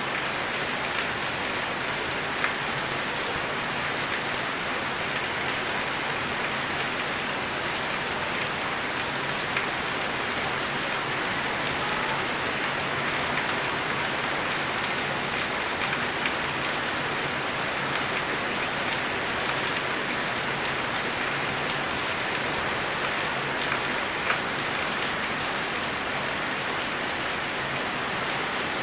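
Torrential rain falling steadily on surfaces: a dense, even hiss with a few sharper drop hits now and then.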